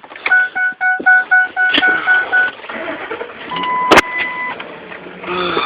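A vehicle's electronic warning chime beeping rapidly, about four beeps a second for roughly two seconds, typical of a door-open or key-in-ignition reminder. A sharp click follows about four seconds in, with a brief steady electronic tone.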